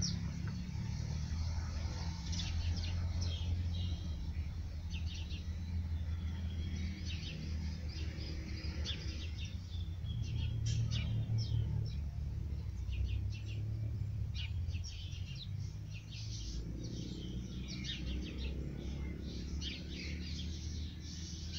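Small birds chirping in many short, high calls scattered throughout, over a steady low rumble.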